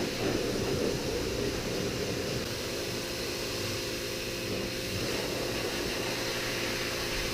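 Steady machine hum with a few held tones that shift slightly about two and a half seconds in.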